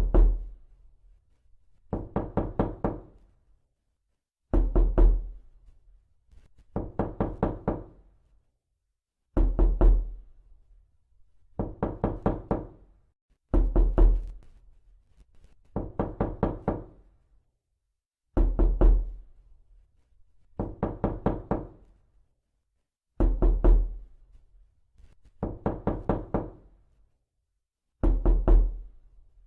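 Knocking on a door in quick bursts of several raps, a burst roughly every two seconds, with dead silence between bursts. It repeats as a loop.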